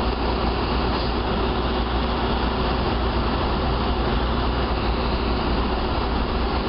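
Steady rumble of a car being driven, road and engine noise without letting up.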